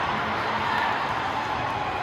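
Steady background crowd murmur at a basketball game, an even hubbub without distinct voices or impacts.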